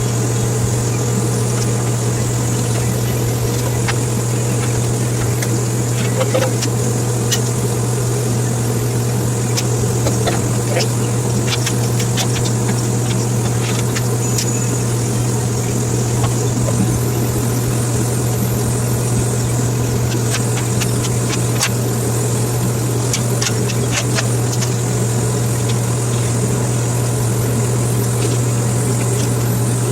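A steady low mechanical hum with no change in pitch, overlaid with scattered sharp clicks and crackles, thickest through the middle of the stretch.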